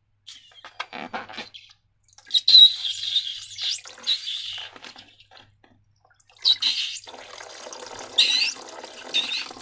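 Wet, squeaky squelching of slime being squeezed and worked by hand, in several bursts with short squeaks that rise and fall.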